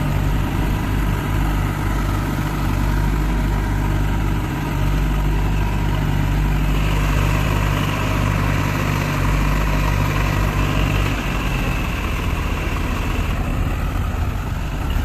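Tractor engine running steadily; its note shifts about eleven seconds in.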